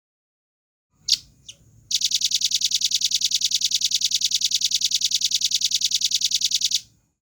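Velvet-fronted nuthatch calling: two sharp high notes, then a long, fast trill of evenly spaced high notes at about nine a second, held for about five seconds before cutting off.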